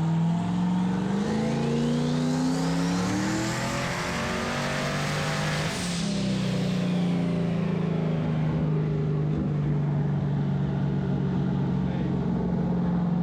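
Vehicle engine accelerating, its pitch climbing over the first few seconds with a thin whine rising alongside. About six seconds in the whine falls away and the engine settles to a steady drone.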